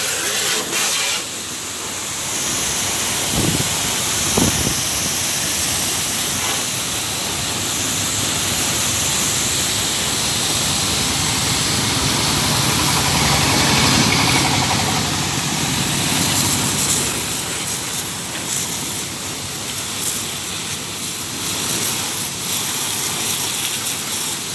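Water sprayed from a hose nozzle onto a motorbike, a continuous hiss, with a low machine hum underneath through the middle.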